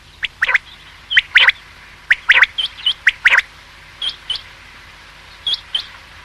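Common quail calling: short, sharp notes, mostly in quick pairs, repeated several times with brief gaps between them.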